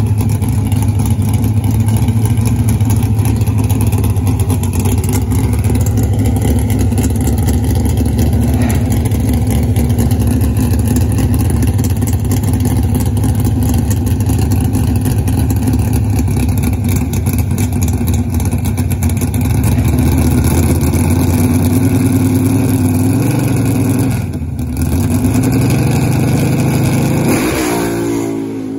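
1970 Plymouth Road Runner drag car's V8 idling loudly and steadily. The engine is held a little higher in the last several seconds, with a brief dip, then it goes to full throttle near the end and the engine note sweeps sharply upward as it launches.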